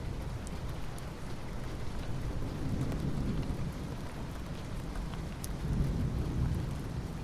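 Soft rain falling on asphalt: a steady hiss with scattered faint drop ticks. A low rumble underneath swells and fades twice.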